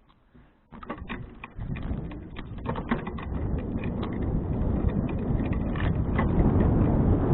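Bicycle ride getting under way: wind rush and rolling rumble on an action camera's microphone start about a second and a half in and grow steadily louder as the bike gathers speed, with scattered clicks and rattles from the bike.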